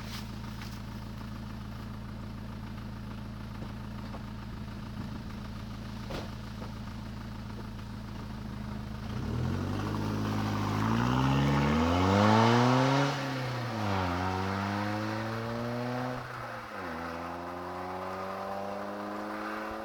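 Peugeot 306 HDi 2.0 turbodiesel with a decatted, straight-through exhaust and no back box, running steadily at first and then accelerating hard. The engine note climbs and falls back at two gear changes and is loudest as it passes about twelve seconds in.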